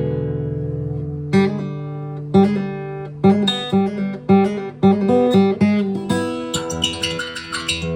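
Acoustic guitar playing an instrumental passage: a chord rings on, then picked notes begin about a second in, quickening through the middle and climbing to higher notes near the end.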